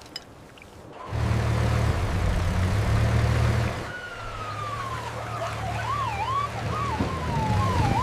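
Police siren sound effect: from about four seconds in, a tone that slides down and then wavers up and down, over a low steady engine hum and rushing noise that start about a second in.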